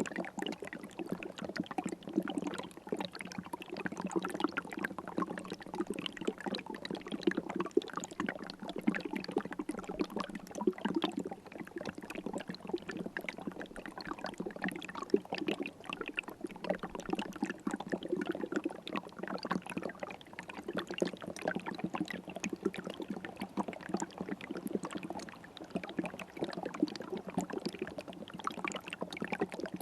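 River water flowing steadily, a continuous rush of moving water with no break or change.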